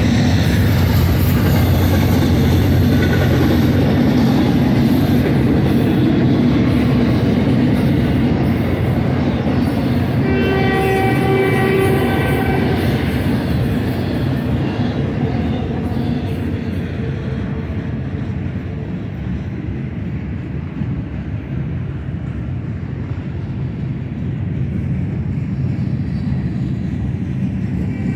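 Freight train cars rolling by with a steady rumble of wheels on rail. A locomotive horn chord sounds about ten seconds in for some two to three seconds, and starts again right at the end.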